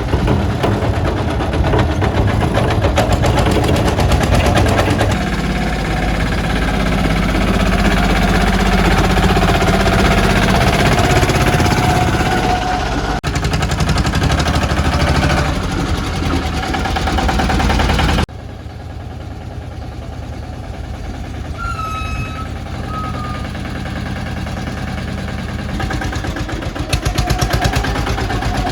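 Mini tractor's small engine running with a rapid steady pulse. About two-thirds of the way through, the sound drops abruptly to a quieter level. A few short high chirps come soon after, and the engine grows louder again near the end.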